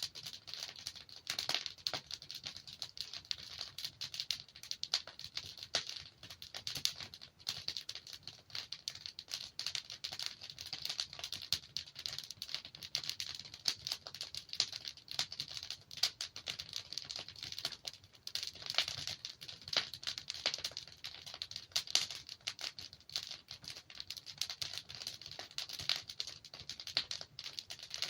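Burning logs crackling and popping: a dense, steady run of small snaps, with a few louder pops here and there.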